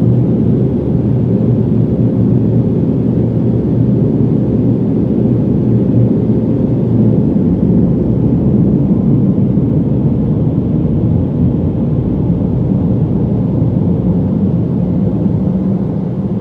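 Mark VII car wash dryer blowers running steadily, a loud, deep rush of forced air blasting over the car.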